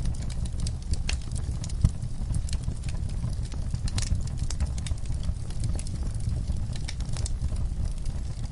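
Wood fire burning in a fireplace: a steady low rumble of flames with irregular crackles and pops, a sharper pop just before two seconds in.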